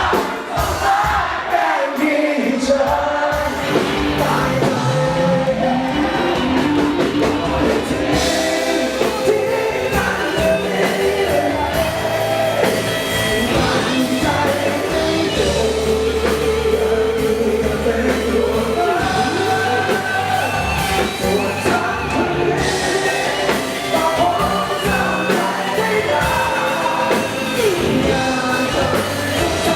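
Live rock band playing with a male singer, an overdriven electric guitar, bass and drums.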